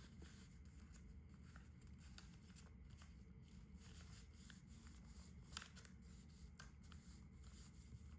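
Faint rustling and creasing of a sheet of A4 paper being folded by hand into a paper airplane, with a few soft ticks over a low room hum, close to near silence.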